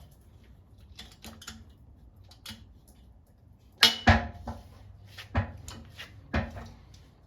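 Stromberg pallet jack handle being pumped: a few light clicks, then sharp metal clunks about once a second from about four seconds in, the first two the loudest. These are the first strokes after the pump was rebuilt with a new seal, and they are not yet lifting.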